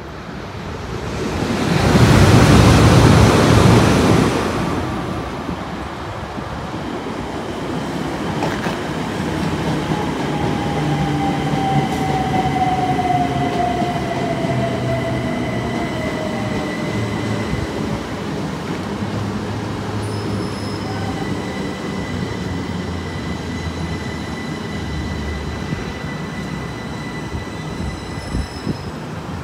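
Trains on the line: a loud rushing pass-by about two to four seconds in, then a train running on for the rest, with a whine that slowly falls in pitch and steady high squealing tones from the wheels.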